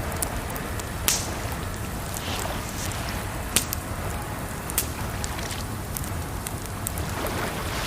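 Campfire crackling, with sharp pops every second or two over a steady rushing of water.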